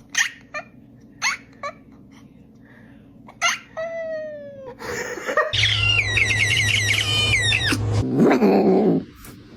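A cat making a series of short high chirping calls and meows, with a few clicks at the start and a fast run of wavering chirps in the middle.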